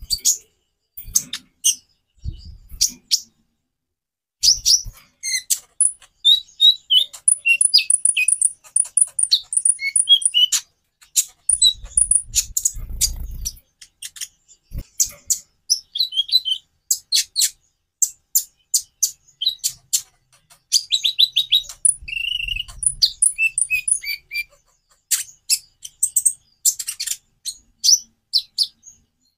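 Konin (kolibri ninja) singing a fast, varied song of sharp high chips and short twittering trills, with few pauses. A few brief low rumbles come in around the middle.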